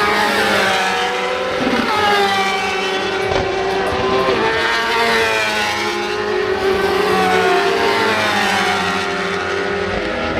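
Several superbike racing motorcycles running at high revs on track, their engine notes overlapping and repeatedly rising and falling in pitch as they accelerate, shift and pass.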